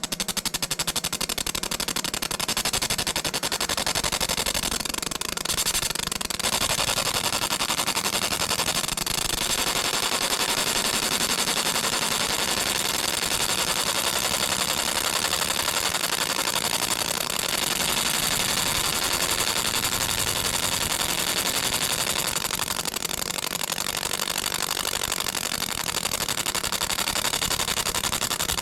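A coin-making machine working the front side of a copper coin, with a fast, steady rattle of rapid clicks that keeps going without a break.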